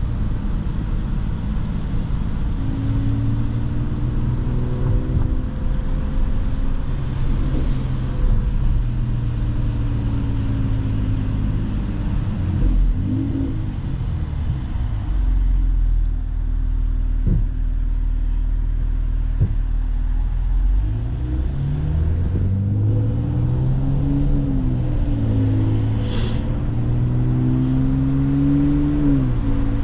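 Mercedes-AMG C43's engine and exhaust while driving, pulling up through the revs and easing off several times, with a steadier low-rev stretch in the middle.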